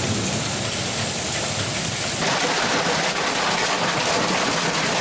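Heavy rain beating down steadily, getting denser and harsher about two seconds in.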